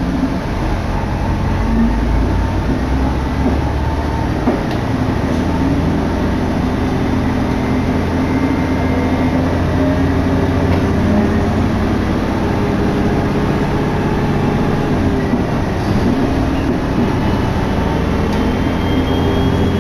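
Kururi Line diesel railcar running along the line: a steady engine drone under rolling wheel and rail noise, with wind rushing past.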